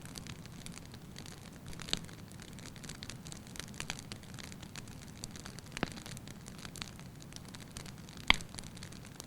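Wood logs burning in a fireplace: a steady low rush of flame with scattered sharp crackles and pops, the loudest pop near the end.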